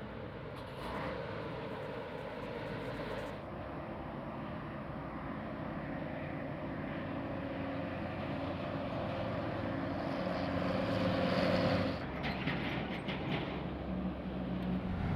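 Road traffic: a motor vehicle's engine running with tyre noise, growing louder until about twelve seconds in, then dropping off suddenly.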